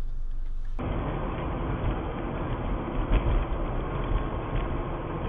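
Steady vehicle running noise, a low rumble with a faint steady hum and a few light knocks. About a second in it changes abruptly to a duller-sounding recording of the same kind of noise.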